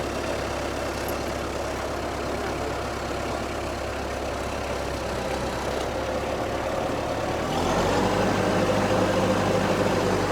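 Tractor engine running steadily, then throttled up about seven and a half seconds in, when it gets louder with a clearer engine note.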